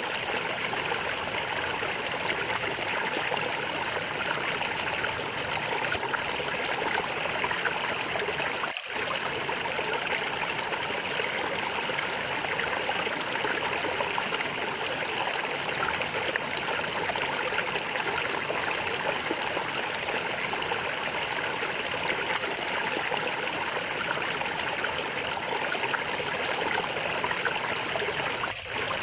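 Small stream of flowing water gurgling and trickling steadily. It dips out for a split second twice, about nine seconds in and just before the end.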